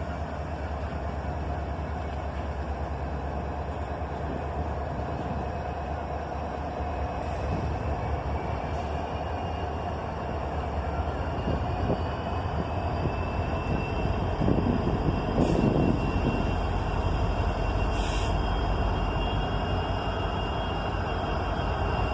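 Diesel freight locomotives running under power as a long freight train gets moving, with a steady low engine rumble. Two short high-pitched sounds come about fifteen and eighteen seconds in.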